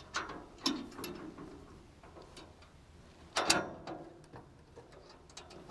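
Scattered metallic clicks and knocks as the folding infeed chute of a PTO wood chipper is handled and swung up on its hinges, with one louder clank about three and a half seconds in.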